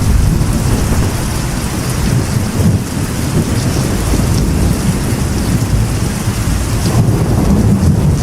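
Steady heavy rain drumming on a metal roof, with a continuous low rumble of thunder underneath.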